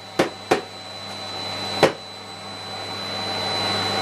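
Miele Complete C3 canister vacuum cleaner running steadily with a high motor whine over a low hum, with three sharp clicks in the first two seconds.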